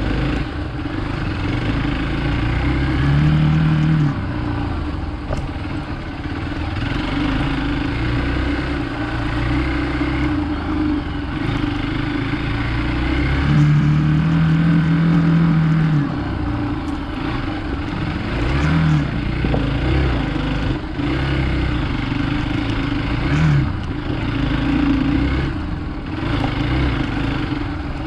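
Hero Xpulse 200 motorcycle's single-cylinder engine running under load off-road, its revs swelling and falling back several times as the throttle is opened; the longest pull comes about halfway through.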